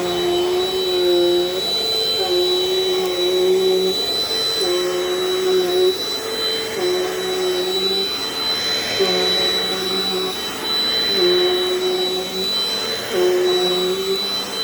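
Dirt Devil Dynamite Plus vacuum cleaner running, its motor pitch stepping up and down about once a second over a steady high whine.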